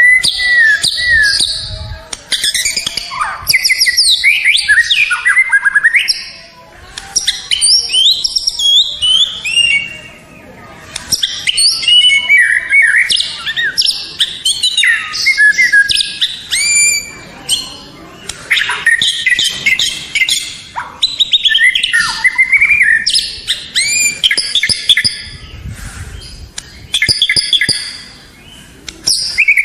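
White-rumped shama (murai batu) singing a long run of loud, varied whistled phrases, with rising and falling sweeps and rapid trills and short pauses between bursts. It is the song of a champion bird, used as a masteran tutor recording for other songbirds.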